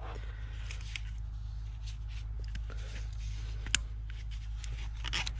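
Scattered light clicks and taps of hands and tools working on engine parts, with one sharp click a little past halfway, over a steady low hum.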